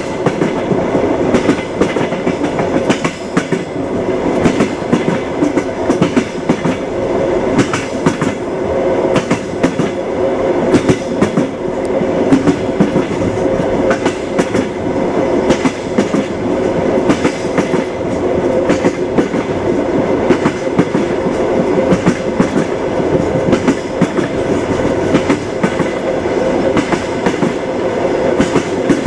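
Train wheels clattering over rail joints, a steady running rumble broken by repeated sharp clicks.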